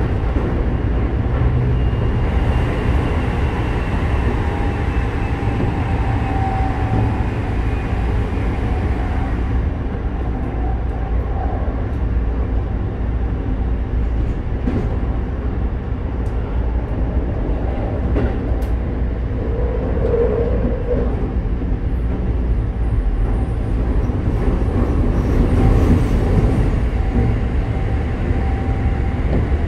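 Interior running noise of a Keikyu 1000 series electric train with Mitsubishi IGBT-VVVF traction control at speed: a steady rumble of wheels on rail, with a faint whine from the drive system above it.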